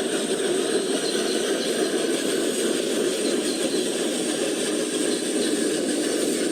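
Steady running noise of radio-controlled model vehicles' small electric motors and gearing, with a thin high whine above it.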